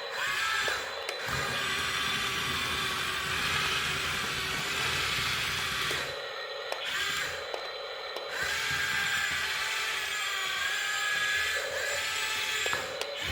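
A small electric motor whining steadily, cutting out briefly twice around the middle.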